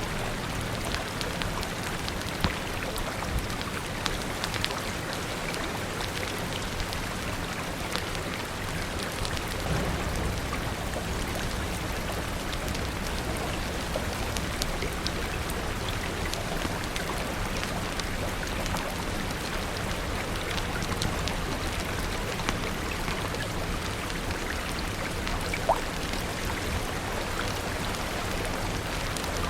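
Steady rain, with sharp crackles from a wood fire scattered through it, two louder pops standing out, over a low steady rumble.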